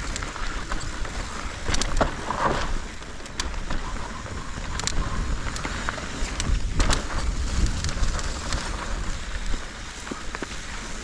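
Mountain bike clattering and rattling over a rough trail, with many sharp knocks and jangles, while wind rumbles on the microphone.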